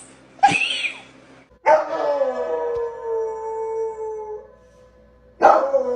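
A dog gives a short yelp, then howls in one long note that slowly falls in pitch for about three seconds. It starts another howl near the end.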